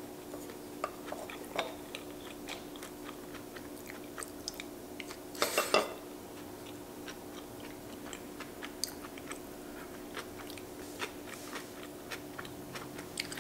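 Close-miked chewing of a soft mouthful of avocado with chili paste: many small wet mouth clicks and smacks, with a louder burst of mouth noise about five and a half seconds in. A faint steady hum lies underneath.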